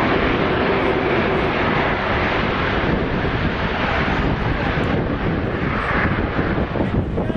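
Aircraft engine noise, a loud and steady rush.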